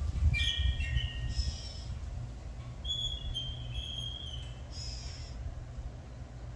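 Chickens calling: several high, thin calls in three groups over a low steady rumble.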